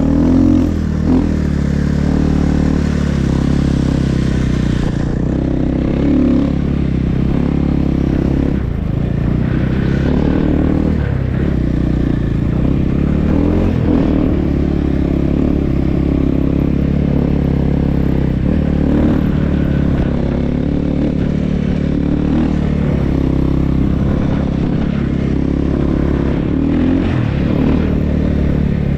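Snow bike (a dirt bike fitted with a ski and rear track) engine running steadily while riding. Its pitch dips and rises briefly every few seconds with the throttle.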